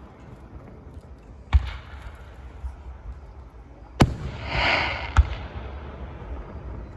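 Fireworks going off: three sharp bangs, about a second and a half in, four seconds in and just after five seconds, with a brief hiss right after the second bang.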